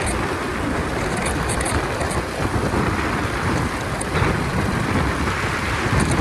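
Wind rushing over the microphone with the road and engine noise of a Honda 125 motorcycle riding at highway speed, a steady, dense rush with no clear engine note.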